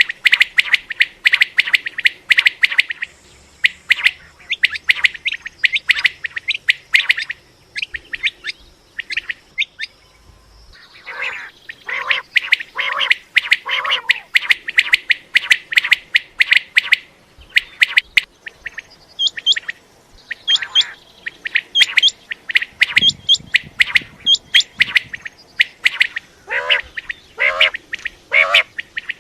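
Common quail calling: many short, sharp calls repeated in quick succession, several birds overlapping. Twice there is a short run of four lower, harsher calls.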